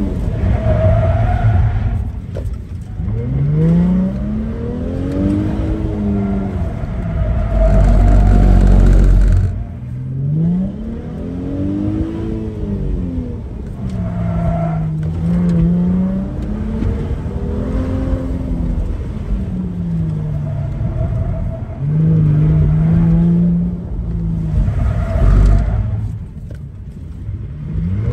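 A Mercedes convertible's engine revving up and dropping back again and again as it is driven hard through an autocross course. Its pitch climbs and falls every couple of seconds, with wind and road noise coming in through the open top.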